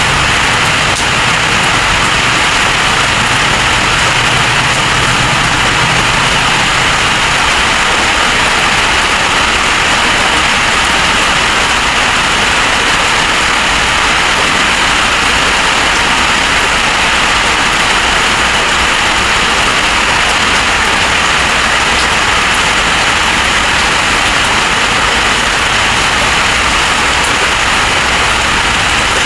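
Heavy storm rain with wind: a loud, steady, unbroken hiss. A faint low hum underneath fades out about seven seconds in.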